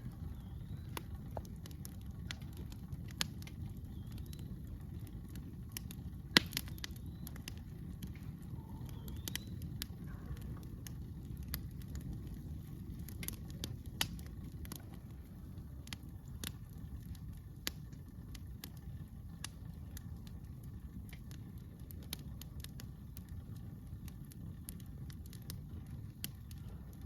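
Campfire crackling: scattered sharp snaps and pops of burning wood, with one much louder pop about six seconds in, over a steady low rumble.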